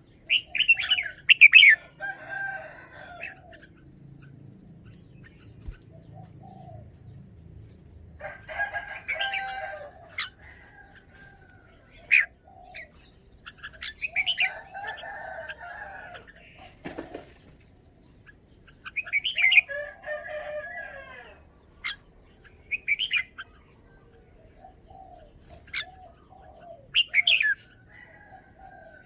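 Caged red-whiskered bulbul singing: short bursts of quick, bright chirping phrases, about six of them, with pauses in between.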